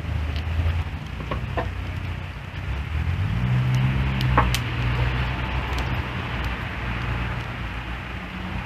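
Wood fire crackling, with a few sharp pops, over a low steady drone that steps up in pitch about three seconds in.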